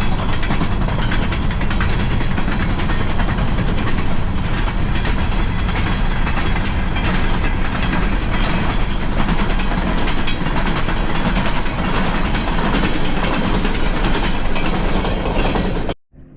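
Freight train cars rolling past close by: a loud, steady noise of steel wheels on the rails with some clatter. It cuts off abruptly near the end.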